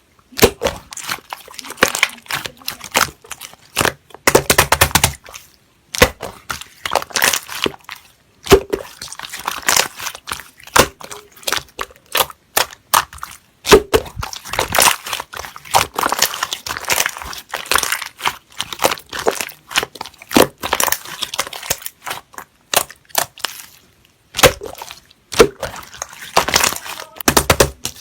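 Slime being played with by hand: dense crackling and sticky clicking as it is pressed and squeezed, in clusters with short pauses between them.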